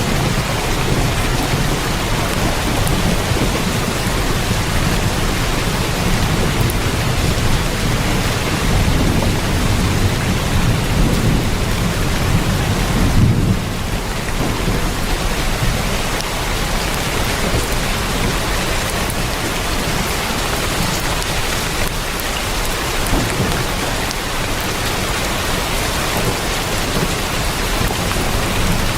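Heavy rain drumming steadily on a tin roof. A deep rumble of thunder runs under it and cuts off about halfway through.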